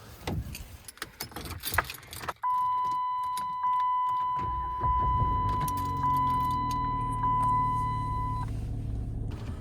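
Car keys jangling, then a car's warning chime dinging steadily about every second and a quarter. A few seconds in, a low steady engine hum comes up beneath it as the car is started and left running.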